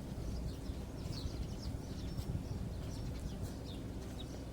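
Small birds chirping: many short, high chirps scattered throughout, over a low steady rumble.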